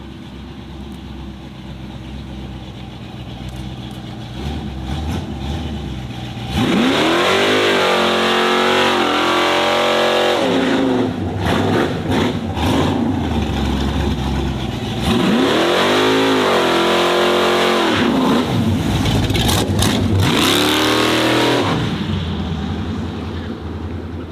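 A performance car engine revved hard three times, the pitch sweeping up and falling back each time, with a few sharp cracks between the revs. Before the first rev the engine runs low and quieter.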